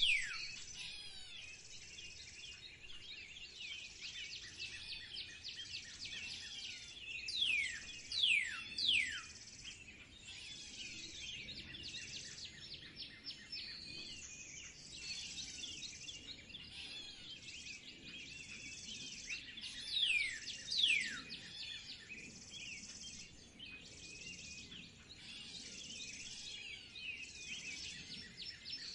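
Several songbirds chirping and singing together, with a louder clear whistle that slides steeply down in pitch, given two or three times in quick succession at the start, again about eight seconds in, and again about twenty seconds in.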